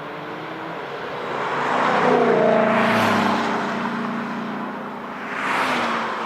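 Porsche 992 GT3 RS's flat-six, with a loud aftermarket exhaust, passing at speed on track; the engine note builds, peaks and drops in pitch as it goes by. A second, shorter swell of engine noise comes about five and a half seconds in.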